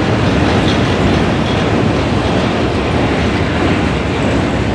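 Freight train of covered hopper cars rolling past, with a steady, loud noise of steel wheels on the rails.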